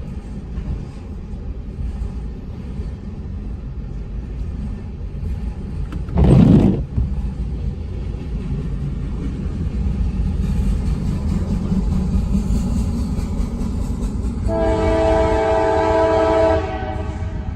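Approaching freight train rumbling, growing slowly louder, then a diesel locomotive's air horn sounds one blast of a few chorded notes for about two seconds near the end. A brief loud thump of noise comes about six seconds in.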